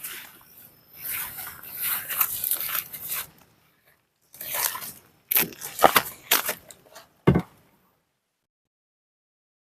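Rustling and crackling handling noise in several bursts, with a few sharp knocks and a low thump about seven seconds in; the sound then cuts to dead silence.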